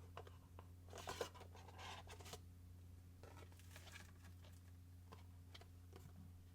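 Unboxing handling sounds: packaging and parts rustling with light clicks, in two bursts about a second in and about three seconds in, then a few faint ticks.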